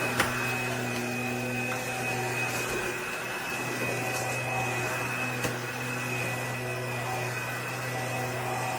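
Bissell PowerClean FurGuard vacuum with a 200 W motor running steadily, its motor hum and whine even throughout. Two sharp clicks sound over it, one just after the start and one about five and a half seconds in.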